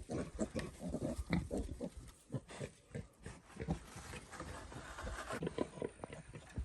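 Domestic pigs grunting in quick, short, irregular grunts.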